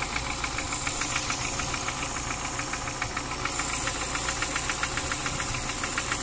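VAZ-2103 four-cylinder overhead-cam petrol engine idling steadily, its valves freshly adjusted, with a rapid, even light ticking. The mechanic puts the ticking down to the alternator bearing, not the valvetrain.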